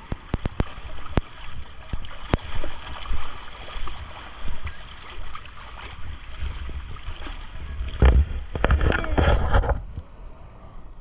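Water splashing and sloshing close to the microphone, with scattered crackling clicks and a louder stretch of churning from about eight to ten seconds in.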